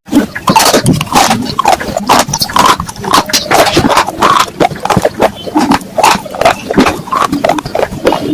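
Clay pot being scraped and rubbed: a busy, irregular run of scratchy strokes that never settles into a steady rhythm.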